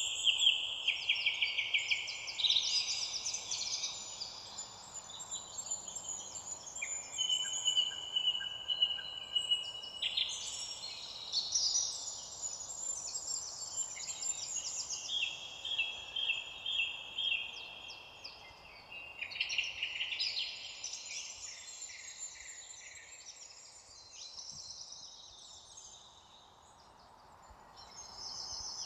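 Several songbirds singing at once, a chorus of overlapping chirps and rapid trills over a faint steady hiss, thinning out for a few seconds near the end.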